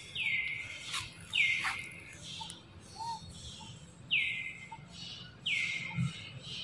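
A forest bird calling four times, each call a high note about half a second long that drops sharply in pitch at the start and then holds steady.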